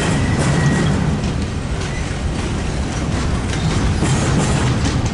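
BNSF freight train rolling past, a steady heavy rumble with wheels clicking over the rail joints and a brief high-pitched wheel squeal near the start.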